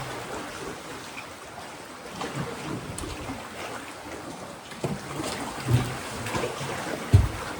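Sea waves lapping and splashing against rocks in an irregular wash, with two louder low thuds of surging water in the second half.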